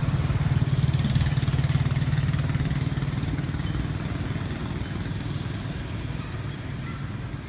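A motor vehicle's engine running close by, a steady low hum that fades gradually over the second half, as if moving away.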